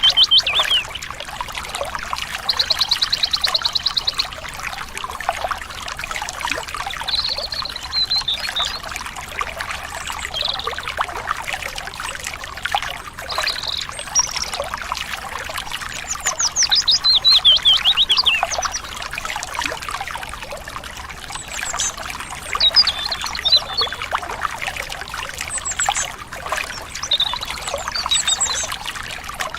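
Several birds chirping and trilling over a steady trickling stream, with quick rapid trills about three seconds in and again past halfway.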